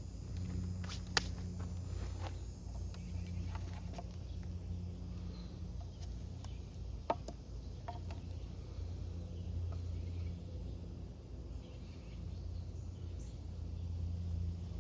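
Dogfennel hand-drill spindle spinning in a tulip poplar fire board: a steady low grinding rumble that swells and eases with the rubbing strokes, with a couple of sharp clicks.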